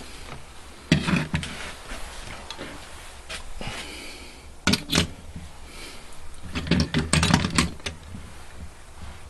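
Handling noise of small motor parts and a prop balancer being set up: scattered clicks and light knocks, with a quick run of clicks about seven seconds in.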